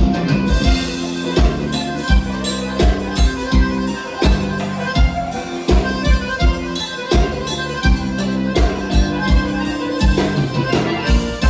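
Gaúcho dance band playing an instrumental break: accordion and keyboard chords over electric bass and a steady drum-kit beat.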